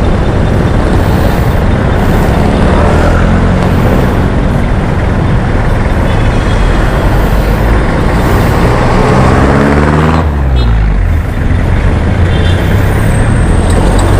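Honda ADV 160 scooter riding in traffic, with heavy wind rush over the microphone. The engine note rises and falls with the throttle and drops off about ten seconds in.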